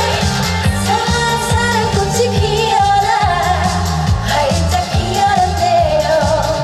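Upbeat trot song performed live: a woman singing a bending melody over a backing track with a steady, driving bass beat.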